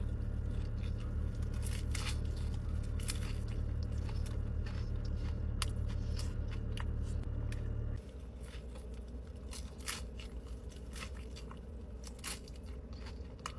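Close-up biting and chewing of a soft taco, with many short crunches and wet clicks. A steady low hum sits under the first part and drops away sharply about eight seconds in.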